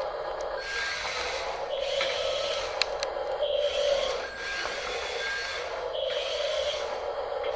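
Radio-controlled Double E E594 toy bulldozer's small electric motors and gearboxes whining and grinding in surges that start and stop every second or two, with rasping, scraping noise and an occasional click.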